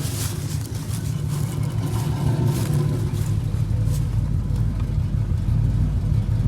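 Cammed 305 small-block Chevy V8 idling with a pulsing, uneven rumble. The roughness is a misfire that the owner blames on a spark plug wire burnt against the header.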